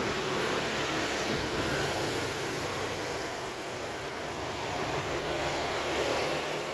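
A passing vehicle's engine: a steady rumble with a broad hiss over it.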